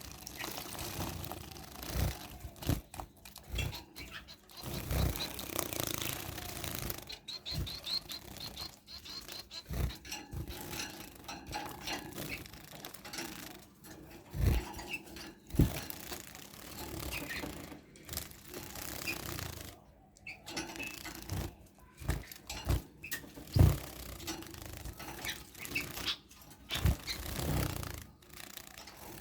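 Small pet bird bathing in a shallow water dish: irregular splashes and wing flutters with occasional knocks against the dish.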